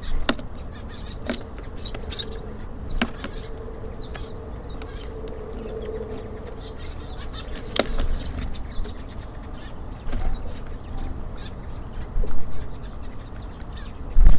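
Small birds chirping at a bird feeder, with several sharp knocks and bumps scattered through, the loudest near the end.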